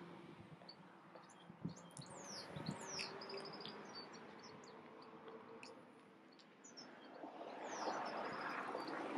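Small songbirds chirping, with short falling high notes and quick trills, over faint background noise. Near the end a broader rush of noise swells louder.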